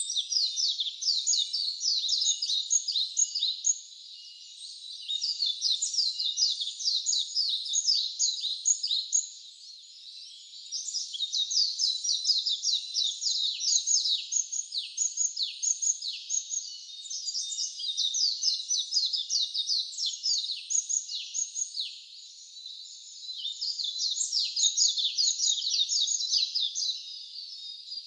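A wild songbird singing long, rapid, high-pitched phrases of several seconds each, with short pauses between them.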